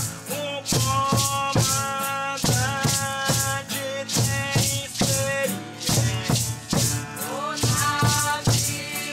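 A chant sung with shaken rattles keeping a steady beat of about two shakes a second, under long held sung notes.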